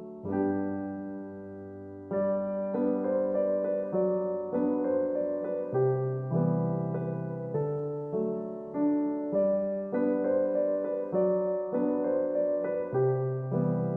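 Background solo piano music: a slow, gentle melody over chords, each note struck and left to fade.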